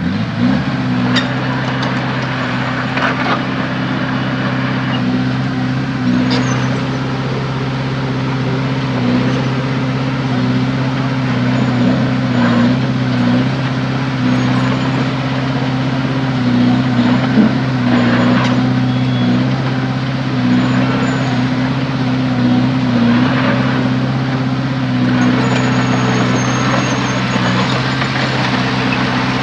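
Heavy diesel engine running steadily at a constant speed, with a few faint knocks over it.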